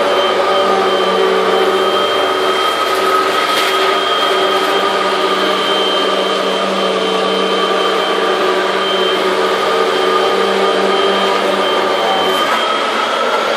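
Vacuum cleaner running steadily with a high motor whine and a rush of air, picking up popcorn; the pitch rises slightly near the end.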